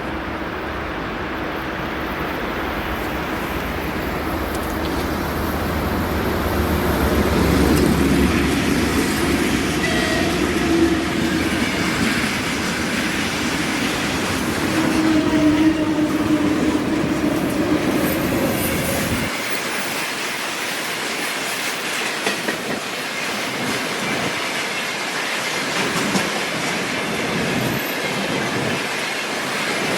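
Electric train passing on the line, getting louder over the first several seconds, with its wheels clattering over rail joints. A low steady hum with a few steady tones drops away abruptly about two-thirds of the way through, leaving the clatter of the passing cars.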